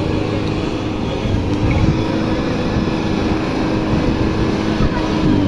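Tractor engine running steadily with an even pitch.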